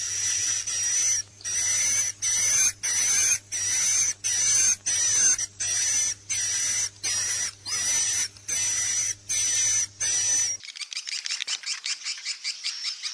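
Swiftlet roosting-call lure recording ('suara inap'), played to draw swiftlets into a nest house to roost. Hissy chirps with a thin high whistle repeat about twice a second, then a little after ten seconds in the track switches to a fast buzzing run of clicky chirps.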